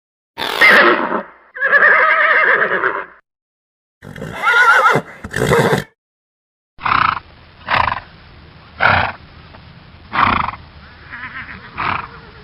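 Horses neighing and whinnying in a series of separate short clips: a few wavering calls in the first half, then a run of about six short calls roughly a second apart over a steady background hiss.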